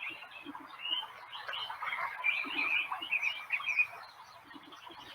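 Birds chirping and twittering in quick, short calls, busiest through the middle, as in a recorded nature soundscape.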